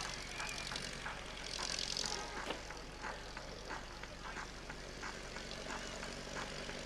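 A steady drone of a propeller aircraft engine, with scattered short clicks and knocks over it.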